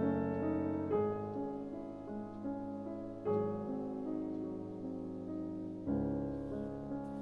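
Slow, gentle solo piano music, its chords struck every second or few and left to ring.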